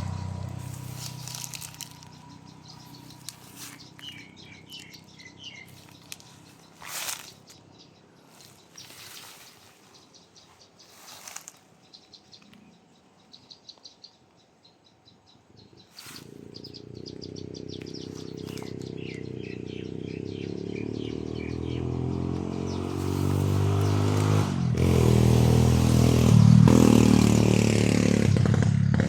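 Small birds chirping in scattered phrases. A motor vehicle's engine fades away at the start, and another engine comes up from about halfway and grows steadily louder, loudest near the end.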